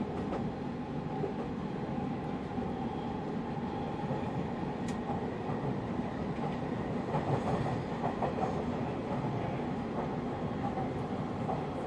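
JR 185 series electric train running, heard from a passenger car: a steady running noise with a few faint clicks about seven to eight and a half seconds in.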